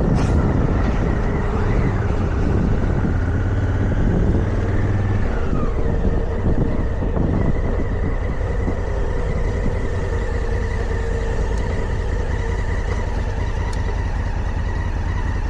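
Motorcycle engine running steadily under way, with low wind rumble on the microphone; the engine tone drops a couple of times in the first few seconds.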